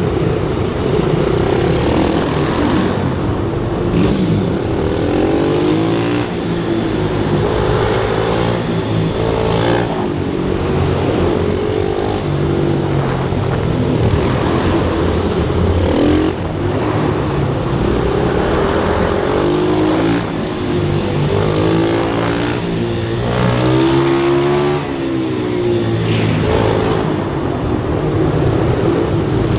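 Several pit bikes' small single-cylinder engines revving up and down over and over as they lap, their pitch repeatedly rising and falling and overlapping.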